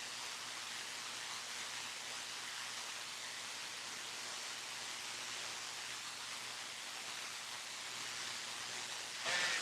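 CB radio receiver hiss on an open channel between transmissions: steady static with a faint hum under it. About nine seconds in the static jumps louder as a signal breaks in.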